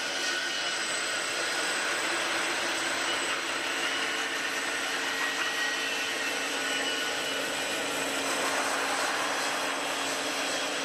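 Machinery running steadily: a constant whirring hum with a faint high whine held throughout, and no distinct strokes or impacts.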